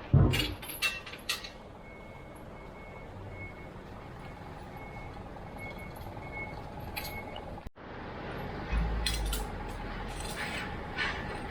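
Workshop background: scattered metal clinks and knocks over a steady low hum, with a faint short beep repeating for several seconds in the middle.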